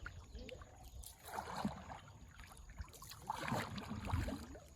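A small rowboat being paddled through floodwater: water swishing with each stroke, twice.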